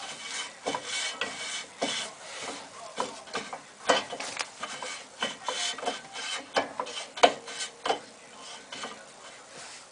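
Irregular scraping and rubbing strokes with scattered clicks and knocks: hand work on a car's dismantled disc brake.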